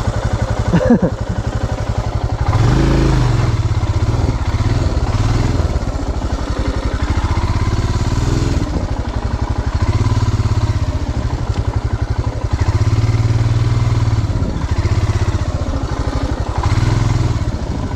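Royal Enfield Himalayan's single-cylinder engine running while riding off-road, the throttle opening and easing so the engine swells louder several times.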